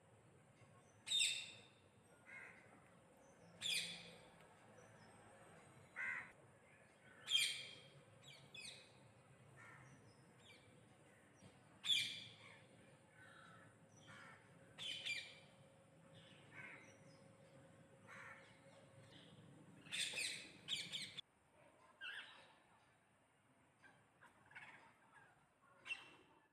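Parrot calling in short, harsh squawks every few seconds, some in quick doubles, with fainter bird chirps in between.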